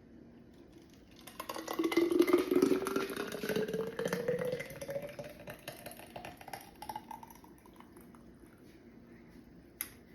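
Liquid poured into a container, splashing, its note rising steadily in pitch as the container fills. It begins about a second in and fades out around seven seconds.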